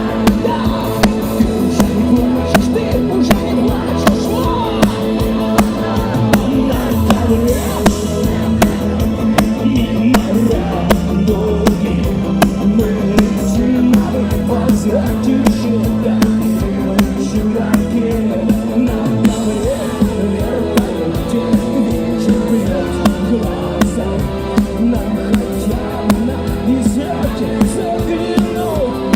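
Rock band playing live, with drums keeping a steady beat under bass and guitars.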